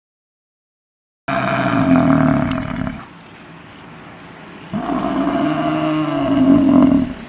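Cow mooing twice: two long, loud moos, each rising and then falling in pitch, the second one longer. Faint bird chirps are heard in between.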